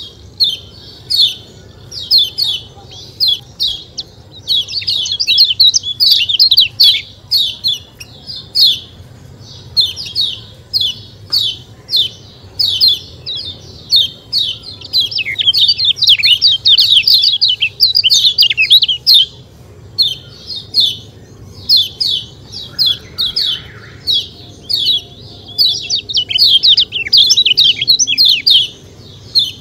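Kecial kuning (a small yellow white-eye) calling 'ciak ciak': dense, rapid runs of short, sharp, high chirps, several a second, coming in bursts with brief pauses.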